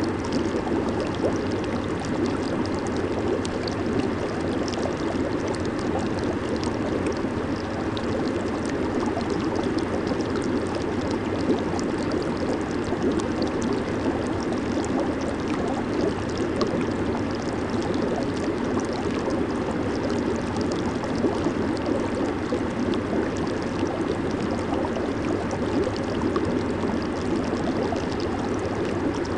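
Hot tub jets churning and bubbling the water, a steady rushing and gurgling.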